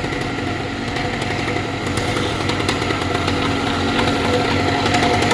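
Vittorazi Atom 80 78cc two-stroke paramotor engine running steadily through a tuned expansion-chamber exhaust pipe, its ignition timing advanced to 23 degrees, growing slightly louder toward the end.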